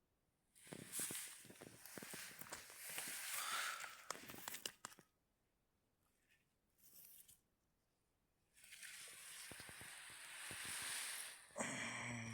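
Rustling and crackling of dry forest litter, leaves and twigs, in two spells of a few seconds each, with many sharp snaps. Near the end a short low voiced sound, like a sigh or grunt, comes in.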